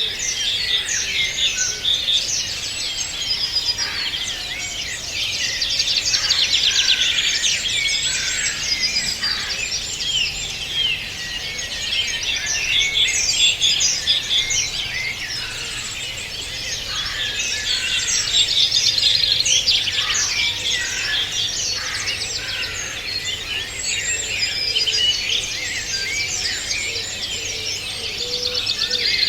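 Many small songbirds singing and chirping at once, a dense, overlapping chorus of quick high trills and twitters with no pause.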